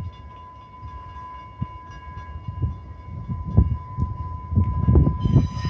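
exo commuter train approaching on the track, its low rumble growing louder and more uneven toward the end, over a steady high-pitched tone, with a brief shrill sound near the end.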